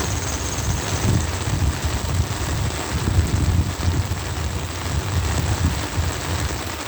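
Heavy downpour: rain hissing steadily, with a low, uneven rumble underneath.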